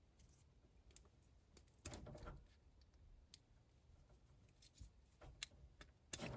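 Faint clicks and a brief rustle of small parts being handled, as spade-connector wires are pulled off a furnace high limit switch.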